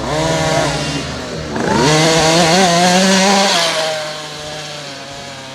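Motocross bike engine revving hard: it climbs in pitch about a second and a half in, holds high for about two seconds, then eases off and fades.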